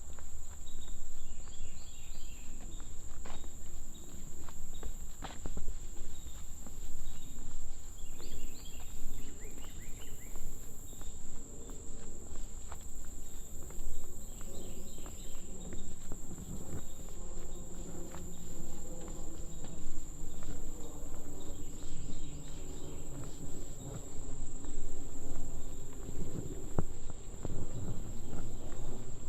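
Footsteps on a trail under a steady high-pitched insect drone, with a bird's short song phrase repeating about every seven seconds.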